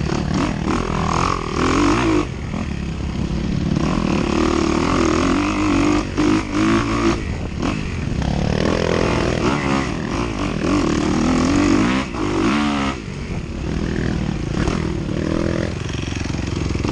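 Dirt bike engine revving hard while racing over rough ground, the pitch climbing and falling repeatedly, with several brief drops as the throttle is shut or a gear is changed.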